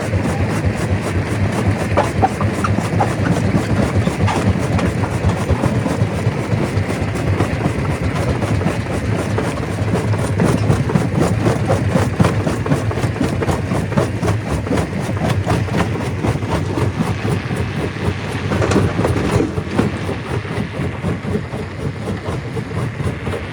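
Stone crusher running, with a steady dense clatter of rock being broken over the low drone of its engine. There is a stronger stretch of clatter about nineteen seconds in.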